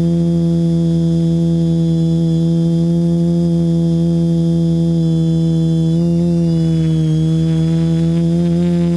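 TBS Discovery quadcopter's electric motors and propellers running at a steady hover with a loud, even hum, as heard from the onboard camera. The pitch sags about two-thirds of the way through as the throttle eases, then climbs back near the end.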